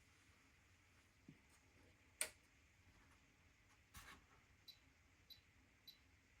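Faint operating sounds from the control panel of an AEG 8000 Series washing machine: two sharp clicks, then short high beeps about every 0.6 seconds near the end.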